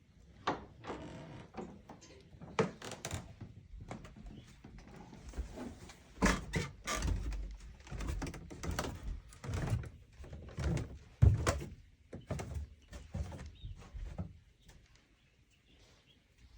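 Irregular knocks and thumps with some low rumbling, falling to near quiet shortly before the end.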